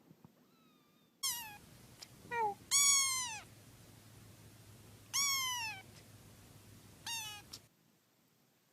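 A cat meowing about five times, each meow falling in pitch, the one about three seconds in the longest and loudest, over a faint low hum.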